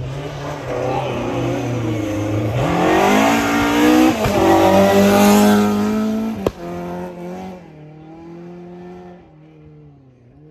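Rally car accelerating hard toward and past the listener, engine pitch climbing through the gears with a brief drop at a gear change about four seconds in. A sharp crack at its loudest, about six and a half seconds in, then the engine note fades as it drives away.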